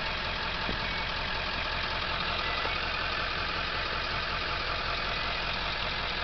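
Straight-piped 7.3-litre Powerstroke turbo-diesel V8 idling steadily.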